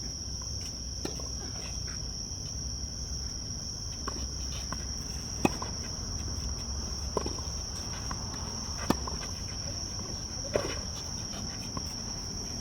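Tennis balls struck back and forth in a rally, four sharp hits evenly spaced about a second and a half apart starting about five seconds in, over a steady high insect chirring.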